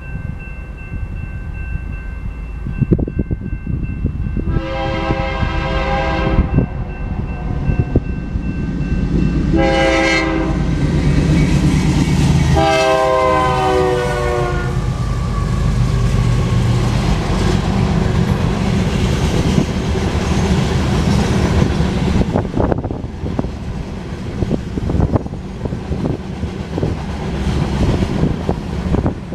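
Freight locomotive horn led by a GE Dash 9-44CW sounding a crossing signal: a long blast, a short one and a final long one whose pitch drops as the engine passes. The diesel locomotives rumble by, followed by the steady clatter and clicking of empty grain hopper cars rolling over the rails.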